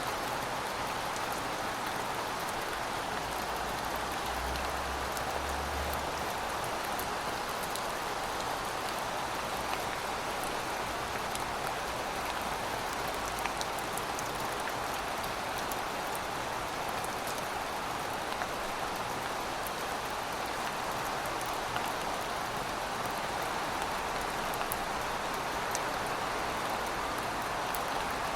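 Steady rainfall: an even hiss of rain with a dense patter of individual drops, unchanging throughout.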